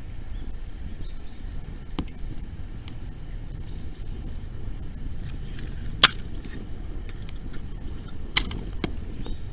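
Wood bonfire burning, with a few sharp pops from the burning wood, the loudest about six seconds in, over a low steady rumble.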